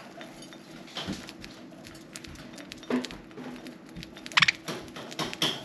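Budgies pecking and cracking millet seeds: irregular small clicks and crunches, with louder ones about one, three and four and a half seconds in.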